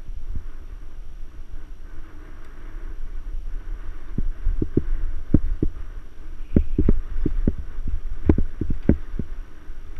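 Mountain bike ridden over rough trail: a steady low rumble of wind and vibration, with irregular sharp knocks and rattles from the bike jolting over bumps, coming thick and fast in the second half.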